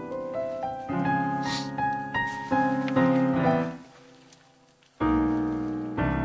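Solo piano music: a flowing run of notes, a brief near-silent pause about four seconds in, then two ringing chords.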